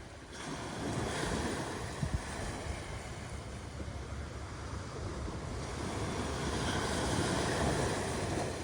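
Ocean waves breaking and washing on a shore, a steady rush that swells twice, once about a second in and again near the end.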